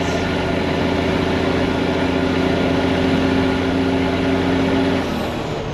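Detroit diesel semi-truck engine pulling steadily at highway speed. About five seconds in the throttle lets off and the engine note drops away, with a faint falling turbo whistle, as the driver shifts into top gear.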